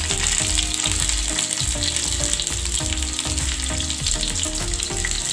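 Pointed gourd pieces sizzling in hot mustard oil in a frying pan as they are laid in one by one; a steady frying sizzle.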